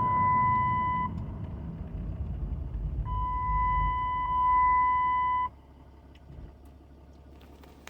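Cummins 6.7 diesel pickup's engine and road rumble heard inside the cab, with a steady electronic beep tone sounding twice, once briefly and once for a couple of seconds. About five and a half seconds in, both cut off and it goes much quieter.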